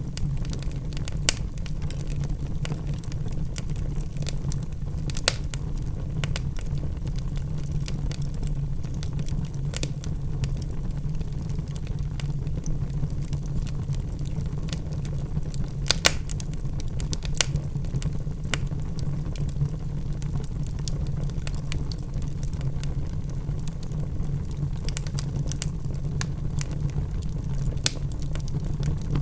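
Logs burning in a fireplace: a steady low rumble of the flames with scattered sharp crackles and pops, the loudest about a second in, five seconds in, around sixteen seconds in and near the end.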